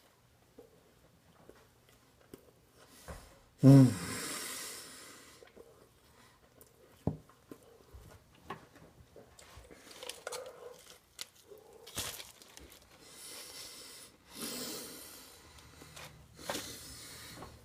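A man eating a burger in big mouthfuls: chewing with heavy breathing through the nose, scattered clicks and rustles, and one loud short vocal grunt falling in pitch about four seconds in.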